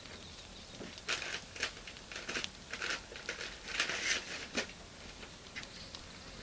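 Campfire of firewood and Iwate cut charcoal crackling and hissing, with a run of dense crackles from about one second in until nearly five seconds, then quieter.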